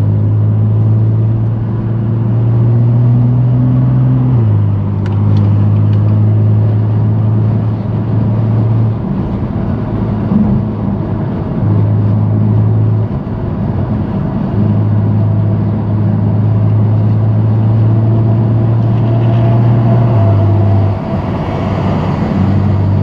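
BMW F80 M3 Competition's S55 twin-turbo inline-six with a straight-piped exhaust, droning steadily at low revs while driving, its pitch holding level with a few short breaks as the throttle is eased.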